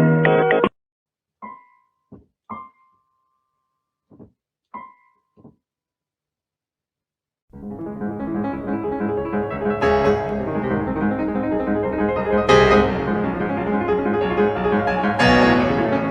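Piano music: a keyboard tune cuts off just after the start, a few short faint blips and taps sound in a quiet gap, then full piano music begins about seven seconds in and plays on.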